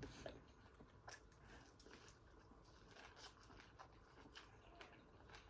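Faint, scattered crunching and chewing of fried food close to the microphone.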